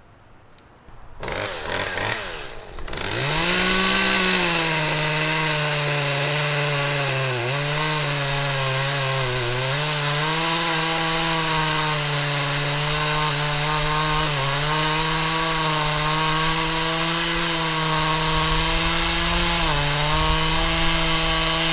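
Two-stroke chainsaw starting about a second in, revving up about three seconds in and then running at high speed while cutting wood, its pitch dipping briefly several times.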